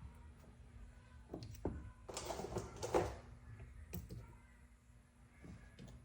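Valve springs being handled and set on a Buxton spring tester: a few sharp metal knocks and clicks, with about a second of scraping, rattling noise some two seconds in as the loudest part.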